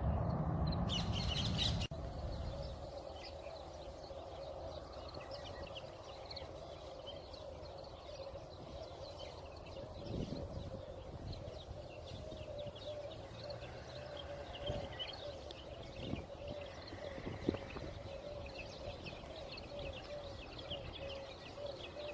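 Small birds chirping in park trees, a busy chorus of short calls, over a steady faint hum. A louder low rumble fills the first two seconds and cuts off.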